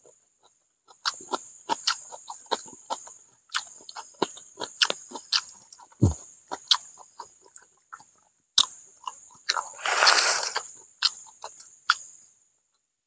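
Close-up mouth sounds of eating fried catfish: wet chewing, smacking and crunchy bites in quick irregular clicks. A low thump about six seconds in and a short loud breathy rush about ten seconds in.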